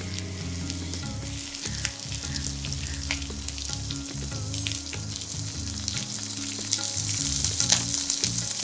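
Onions, curry leaves and raw mango quarters frying in hot oil in a pan: a steady sizzle with many crackles and spits, getting louder near the end.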